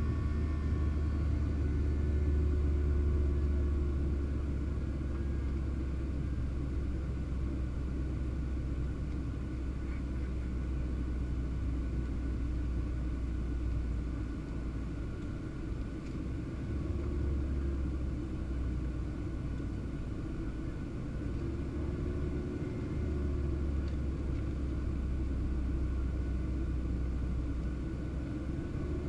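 Boeing 737-700 in flight: a steady low rumble of its CFM56-7B jet engines and airflow, with faint steady hums above it.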